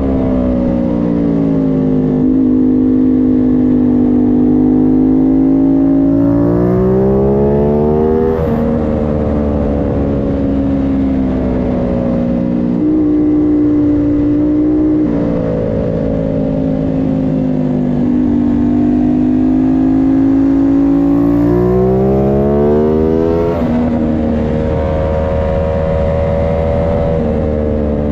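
Aprilia Tuono 660 Factory's engine pulling hard on track, its pitch climbing and dropping sharply at each upshift several times, over steady wind rush.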